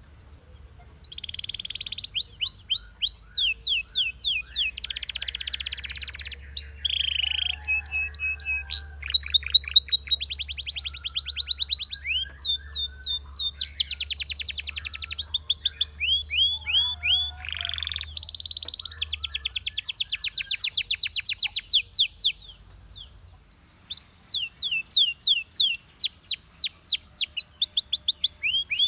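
Belgian canary singing: fast trills and rolls of rapidly repeated high notes, in phrases with a short pause about a second in and another near the end. A faint low hum runs under the song for the first two-thirds.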